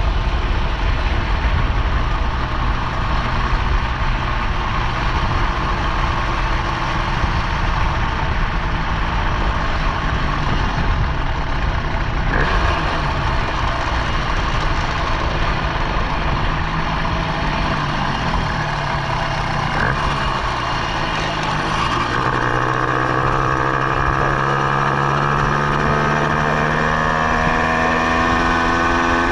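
Minarelli vertical two-stroke engine on a motorized bicycle running steadily; about three-quarters of the way through, its pitch begins a slow, even climb as it speeds up.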